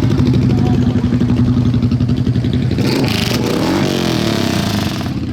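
Honda CB750 single-overhead-cam four-cylinder motorcycle engine running steadily, then revved up and back down about three seconds in.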